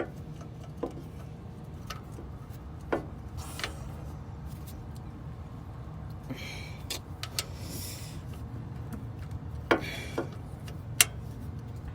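A few sharp metallic clicks and knocks from hand tools working on a truck's oil drain plug and filter area, over a steady low rumble.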